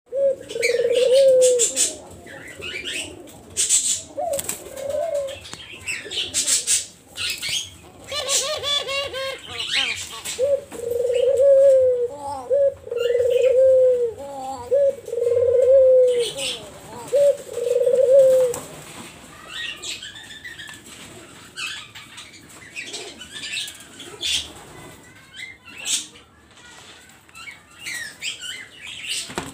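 Doves cooing: a string of low repeated coos through roughly the first twenty seconds, with brief wing flutters and rustles in between. After that only scattered short flutters and rustles are heard.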